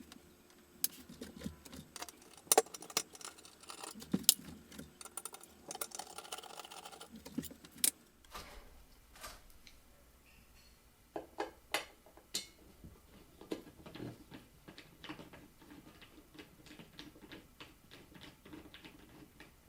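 Irregular clicks, taps and light metallic clinks of hand work on a ceiling fan, with screws and blade hardware being handled and removed. The clicks come thicker in the first half and sparser after about eight seconds, when a faint low hum sets in.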